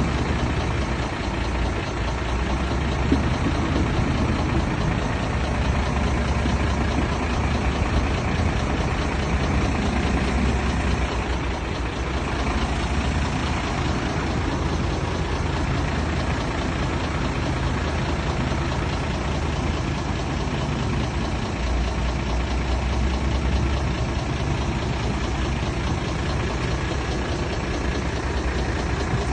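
Heavy earthmoving machine's diesel engine running, its deep low rumble growing stronger and easing off again in long stretches.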